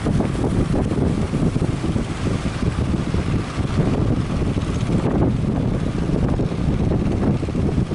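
Strong wind buffeting the microphone: a loud, uneven low rumble with no pauses.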